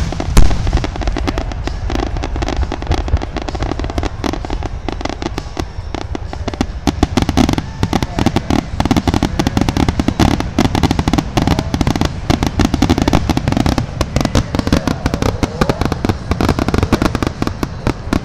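Aerial fireworks finale: a dense, rapid-fire barrage of shells bursting, many overlapping bangs and crackles, the loudest bangs right at the start.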